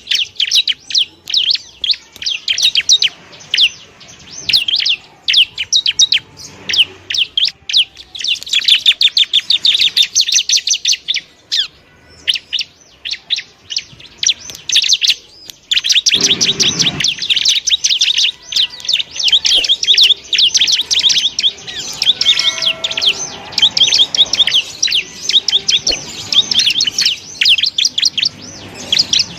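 Bar-winged prinia (ciblek) singing: long runs of rapid, high-pitched chattering chirps, broken by a pause of a few seconds near the middle.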